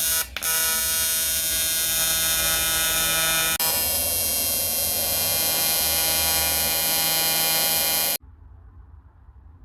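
A loud, steady electrical buzz with many overtones, like mains hum. It drops out briefly near the start and cuts off abruptly about eight seconds in.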